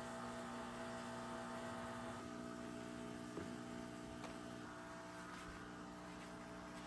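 Steady electrical hum made of several held tones over a faint hiss, with a few faint clicks.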